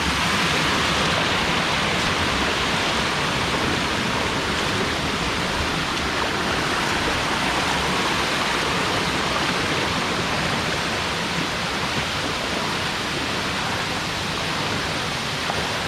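Steady rush of a waterfall's falling water, an even roar with no breaks.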